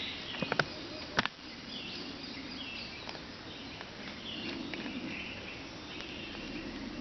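Outdoor woodland ambience: a fly buzzing around, with a bird's short, repeated high calls, and two sharp clicks about half a second and a second in.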